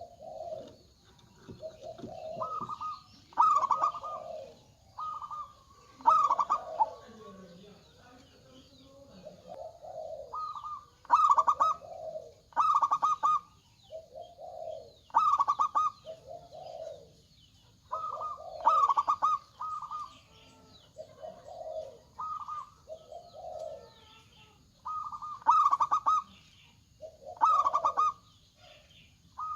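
Zebra doves (perkutut) cooing, more than one bird answering another: repeated short phrases of quick stuttering high notes alternating with lower rounded coos, about one every second or two.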